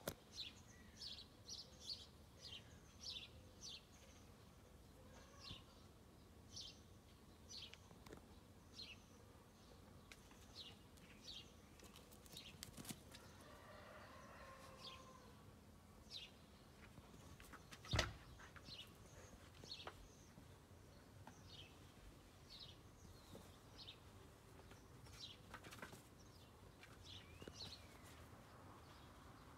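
Faint chirping of small birds: short, high chirps come a few times a second at first, then more sparsely. About eighteen seconds in there is one sharp click, the loudest sound.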